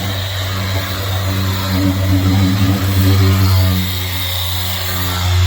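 Power sander running steadily against a fibreglass boat hull, a steady machine hum with a grinding hiss over it that swells a little as it is worked, taking the gloss off the bottom before primer.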